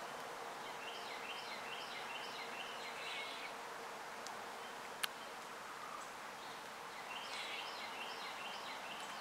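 A small songbird singing two bouts of a quick, repeated two-note chirping phrase over a steady soft hiss. A single sharp click comes about halfway through.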